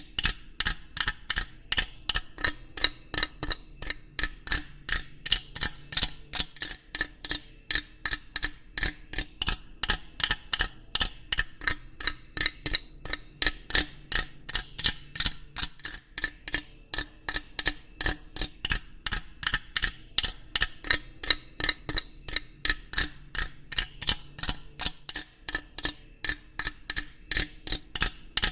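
Rapid, steady mechanical ticking, about three sharp clicks a second, running evenly without a break.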